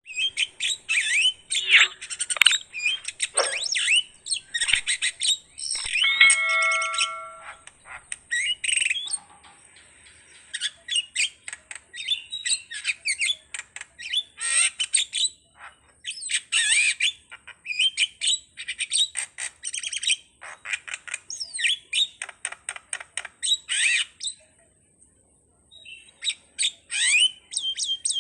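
A jalak (starling) singing a rapid, varied string of chirps, whistles and harsh squawks, broken by short pauses, with a quiet gap of about two seconds near the end. A thin steady high whine runs underneath.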